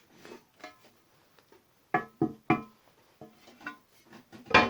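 Irregular knocks and clinks with brief ringing tones, the strongest a quick cluster of three about two seconds in. They come from an 8 mm thick aluminium plate being handled.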